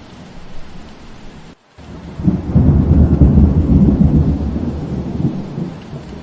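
Steady rain with a roll of thunder: after a brief dropout about one and a half seconds in, a loud low rumble swells, peaks, and fades away over about three seconds, with the rain going on underneath.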